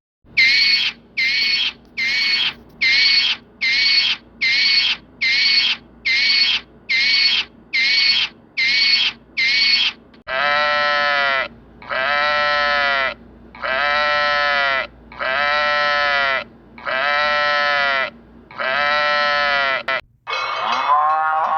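Animal calls from two different animals in turn: first a run of about fifteen short, high calls, evenly spaced at roughly one and a half a second, then six longer pitched calls, each just over a second long, that rise and fall. A different sound begins near the end.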